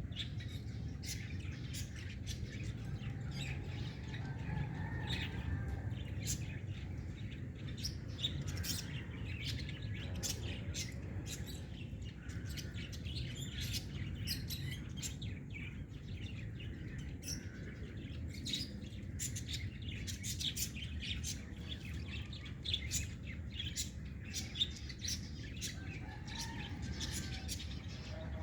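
Small pet birds chirping, many short quick chirps overlapping, over a steady low hum.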